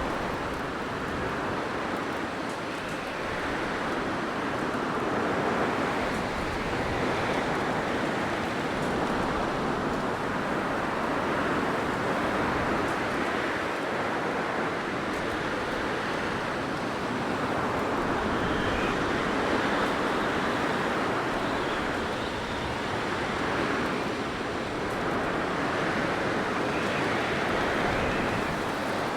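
Blizzard wind blowing steadily, in slow gusting swells.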